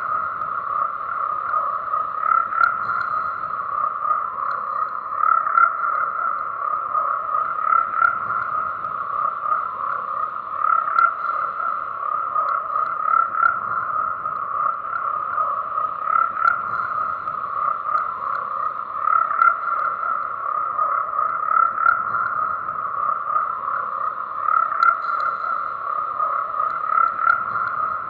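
A chorus of frogs croaking continuously in a dense, steady mass of calls, swelling louder about every three seconds.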